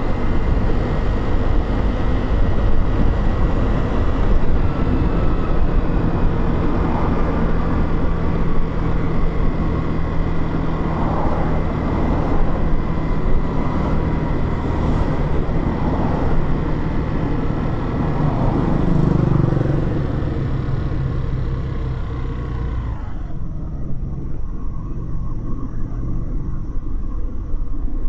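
Motorcycle engine running steadily under wind and road noise while riding. About two-thirds of the way through, the hiss falls away sharply, leaving a lower engine rumble.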